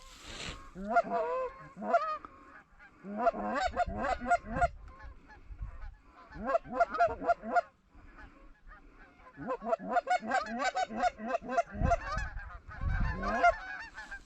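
Geese honking and clucking in rapid bursts of short, choppy notes, several bursts with short pauses between them.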